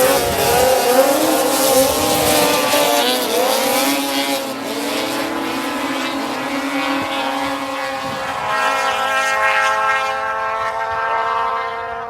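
Racing snowmobile engines running at high revs, several at once, their pitch rising and falling as the sleds pass. From about eight seconds in, one engine holds a steady note.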